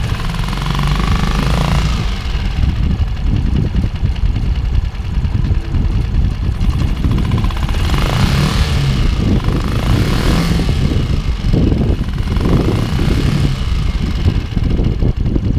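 Tohatsu outboard motor running steadily with its engine cover off, just after its carburettor float was worked on; the owner takes the running as a sign that the engine trouble is fixed.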